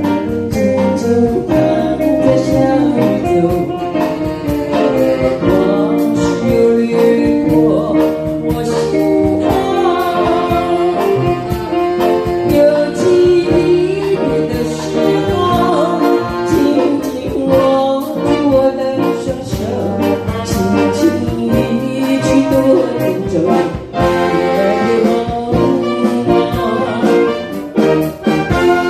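Live band music: a small folk light-music band playing an early Mandarin pop song, with a melodic lead over a steady beat.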